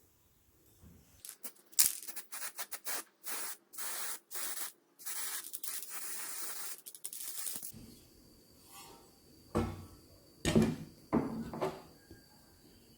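A quick series of short, rough rubbing or scraping strokes for several seconds, then a few knocks.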